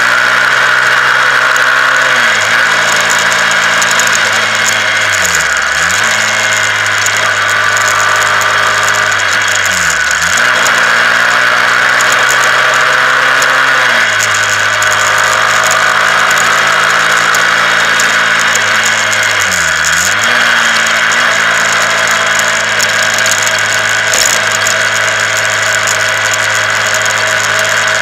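Honda CBR125R's single-cylinder four-stroke engine running under way. Several times its pitch drops sharply and climbs back within about a second, as the rider changes gear or eases off the throttle.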